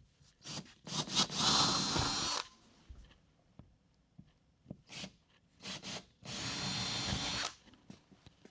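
Power drill run in two bursts of a second or so each, about a second in and again about six seconds in, with short trigger blips before each run.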